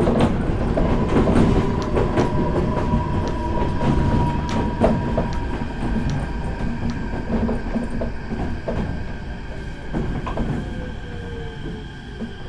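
Onboard running sound of a Meitetsu 4000 series electric train: wheels clicking over rail joints under a steady whine. From about ten seconds in, the motor whine slides down in pitch and the sound grows quieter as the train slows, typical of braking for the next station.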